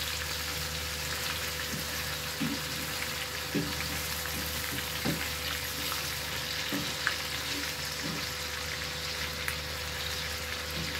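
Hamburger patties sizzling steadily as they fry in oil in a frying pan, with a few light knocks of a spatula against the pan.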